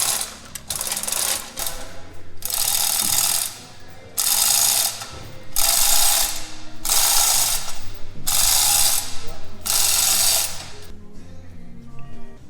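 Hand ratchet wrench worked in about eight repeated strokes of roughly a second each, with background music underneath.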